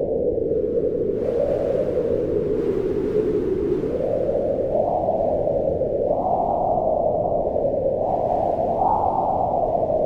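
Wind blowing in gusts: a steady low moaning whoosh whose pitch rises as each gust swells, several times over.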